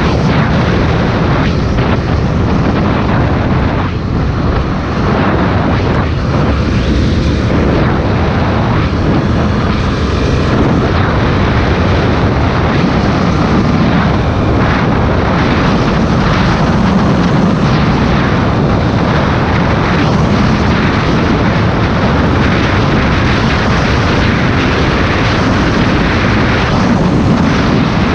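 Honda Tornado motorcycle on the move, its single-cylinder engine running steadily under loud wind rush on the microphone.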